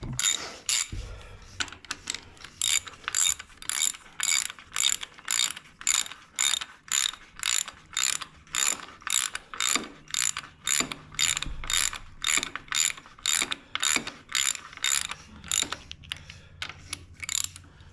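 Hand ratchet wrench worked back and forth, a short ratcheting rasp on each return stroke about twice a second, running a bolt in.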